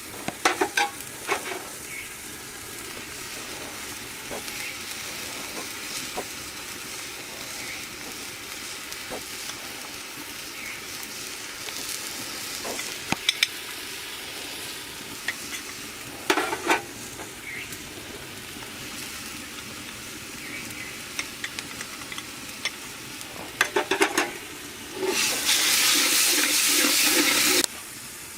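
Chicken frying in oil in a pan, with a steady sizzle and spells of a metal spatula scraping and stirring against the pan. Near the end a much louder hiss rises suddenly, lasts about two seconds, then cuts off.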